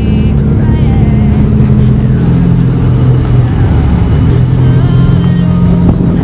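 Car engine running at a steady low cruise, with music playing over it.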